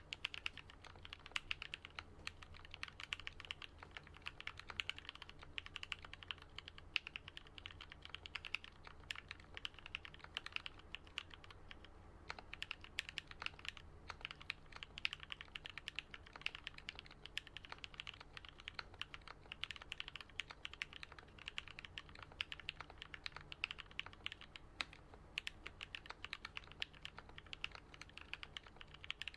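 Continuous fast typing on a Switch Couture Alice-layout custom mechanical keyboard with lubed, filmed Gateron Yellow linear switches and lubed Durock stabilizers: a dense run of muted keystroke clacks, the deep 'thock' of a lubed build. The typing thins briefly about twelve seconds in.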